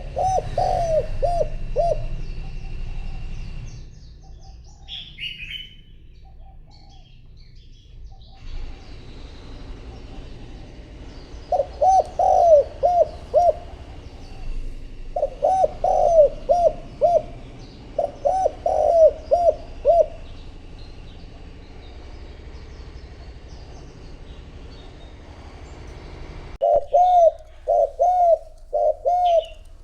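Spotted dove cooing in several short phrases of three to five notes, with long pauses between them. Small birds chirp faintly and high-pitched now and then.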